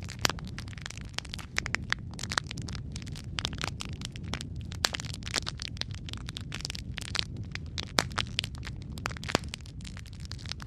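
Wood fire crackling, with a steady low rumble of flame under dense, irregular pops and snaps, a few of them sharper and louder than the rest.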